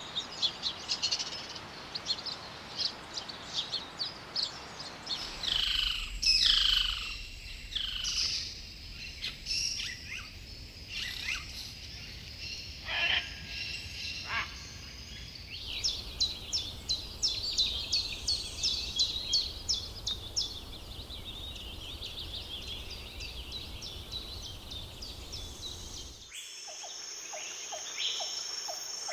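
Rainforest birds calling and singing: many short whistles and chirps, with a run of rapid repeated notes around the middle. The background changes abruptly three times, about 5, 16 and 26 seconds in, as one recording gives way to another.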